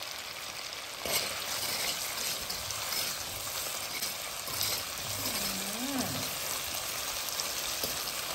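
Shrimp frying in hot oil in a pot, a steady sizzle, with a couple of sharp knocks about a second in and near the end.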